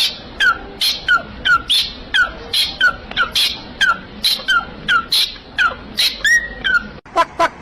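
A pet bird calling over and over in short, loud chirps, each sliding down in pitch, about three a second. About seven seconds in it breaks off and different bird calls start.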